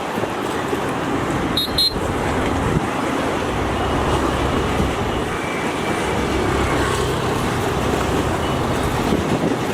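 Diesel-hauled freight train of petroleum tank wagons running past with a steady rumble.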